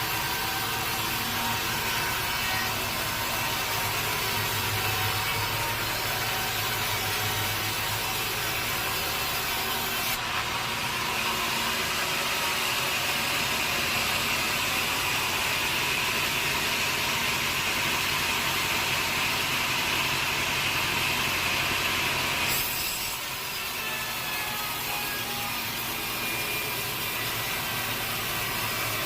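Sawmill saw running steadily and cutting through a teak log. The sound of the blade in the wood comes in abruptly about ten seconds in and stops sharply after about twelve seconds, leaving the machine running on.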